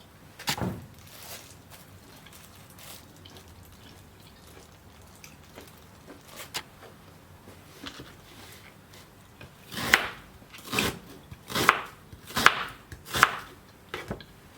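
Knife chopping food on a cutting board: one knock just after the start, then, from about ten seconds in, a run of five strokes a little under a second apart.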